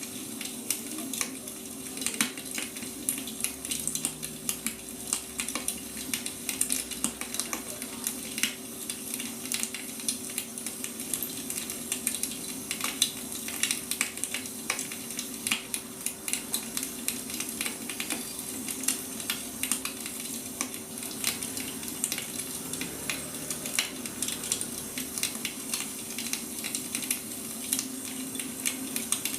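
Wood fire crackling: a dense, irregular stream of sharp pops and snaps over a steady hiss, with a constant low hum underneath.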